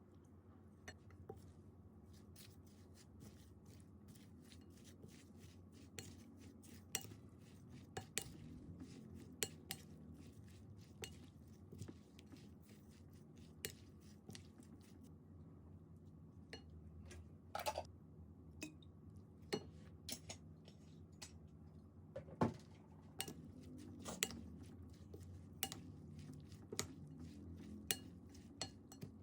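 Scattered, irregular clinks and taps of kitchen utensils against dishes and bowls, over a steady low room hum.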